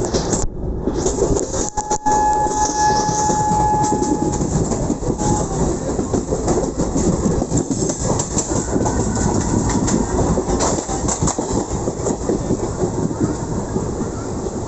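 Train running on the rails, its wheels clattering steadily over the rail joints. A thin steady high tone sounds for about two seconds a couple of seconds in.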